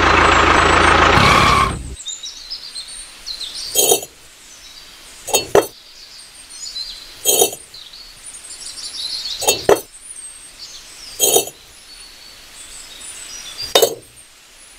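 A motor running steadily cuts off abruptly about two seconds in. Then come six short, sharp clinks spaced one to two seconds apart, over faint high chirping in the background.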